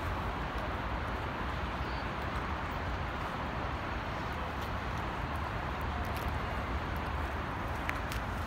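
Heavy rain falling steadily: an even hiss with scattered faint drip ticks.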